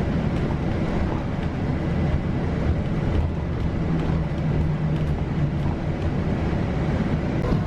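Steady low rumble of a vehicle in motion, heard from on board, with a faint engine or motor hum underneath.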